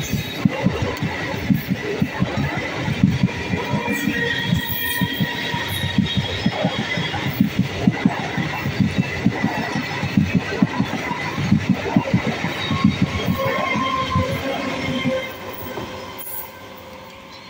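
12-coach MEMU electric multiple-unit train passing at speed, its wheels clattering rapidly over the rail joints with a faint thin squeal above. About fifteen seconds in the clatter drops away sharply as the last coach goes by, leaving only a fading rumble.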